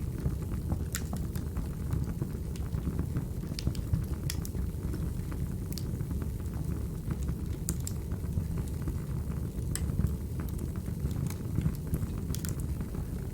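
Wood fire burning: a low, steady rumble with irregular sharp crackles and pops.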